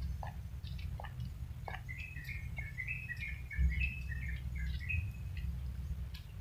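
A bird singing a quick run of short chirping notes for about three seconds, starting about two seconds in, over a steady low rumble.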